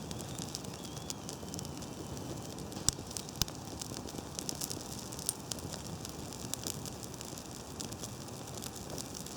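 Small teepee campfire of thin birch twigs burning, with scattered sharp crackles over a steady hiss; the twigs hiss because they are damp with winter snow.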